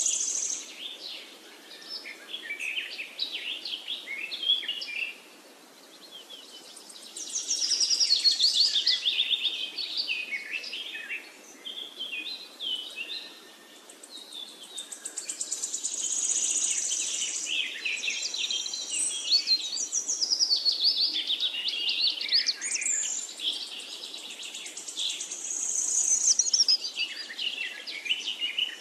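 A chorus of birds chirping and trilling, with many quick calls overlapping. It comes in waves and falls quieter twice, briefly.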